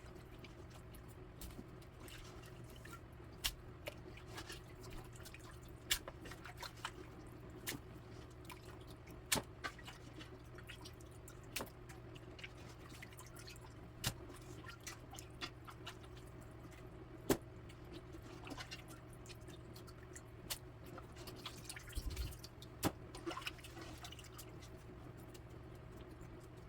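Cooked chicken broth dripping and trickling through a strainer: scattered, irregular drips and small ticks, a little busier near the end, over a faint steady low hum.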